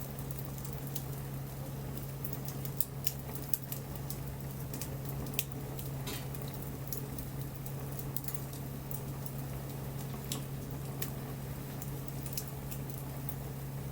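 Wood fire crackling, with irregular sharp pops over a soft hiss, above a steady low hum.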